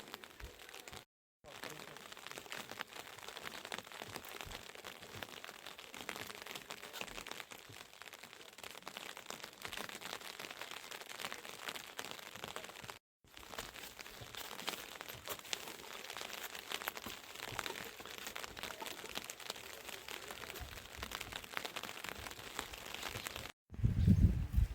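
Heavy rain pattering densely on a surface, a steady crackle of many small drops. It breaks off abruptly to silence three times.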